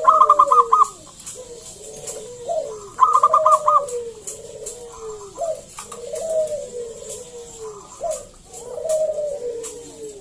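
Local perkutut (zebra dove) cooing in repeated phrases: a quick run of loud staccato notes followed by gliding, falling coos, the song starting again every few seconds.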